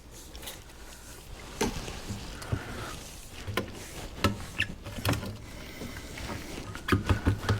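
Scattered sharp clicks and knocks of drain pipe fittings being handled and fitted together, with a quick cluster of knocks near the end.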